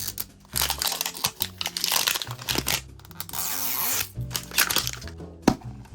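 Plastic wrapping being torn and crinkled in repeated rustling bursts as a Mini Brands capsule ball is opened, over background music.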